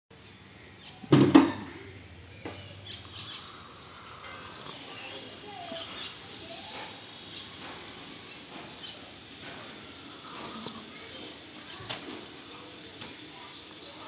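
Small birds chirping, with short high chirps and slurred calls scattered throughout. A brief loud knock comes about a second in.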